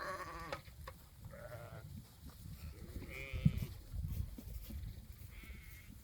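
Sheep bleating, several separate quavering calls one after another, over a steady low rumble and a couple of low thumps.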